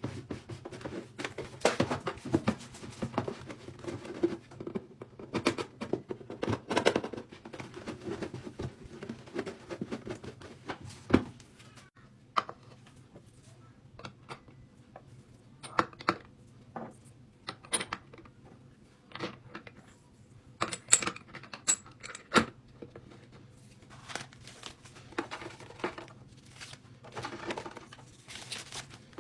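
Small beauty-product containers being handled and set down one by one: scattered clicks, taps and clacks with some crinkling of packaging, busier in the first half.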